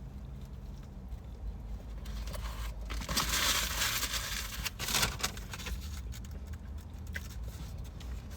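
Paper food wrapping being crumpled and rustled, loudest for a couple of seconds about three seconds in, with a shorter rustle about five seconds in.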